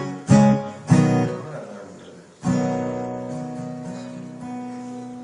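Acoustic guitar strummed: two quick chords near the start, then a chord about two and a half seconds in, left to ring and slowly fade.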